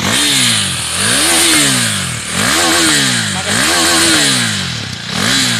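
2017 KTM Duke 390's single-cylinder engine revved through its exhaust five times in quick succession, each rev rising and falling about a second apart.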